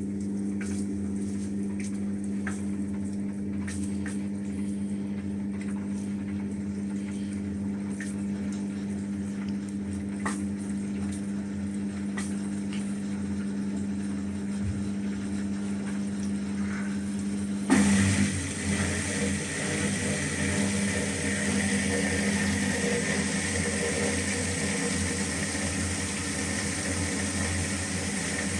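Hotpoint-Ariston AQ105D washing machine running with a steady hum. About two-thirds of the way through there is a sudden clunk, and the sound changes to a louder, hissing rush.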